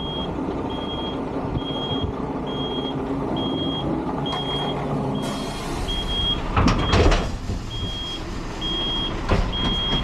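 Truck engine running with a short high-pitched beep repeating about every 0.7 seconds, as from a reversing alarm. A louder rush of air-like noise sounds about seven seconds in.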